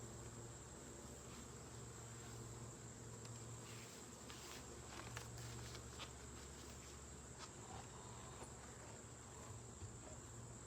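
Faint insect sound: a steady high shrill with a low hum beneath it, and a few light clicks and taps around the middle.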